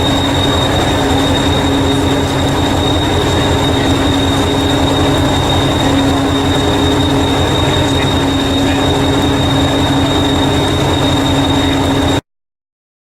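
A train running steadily, with a constant high whine over a low rumble, cutting off abruptly near the end.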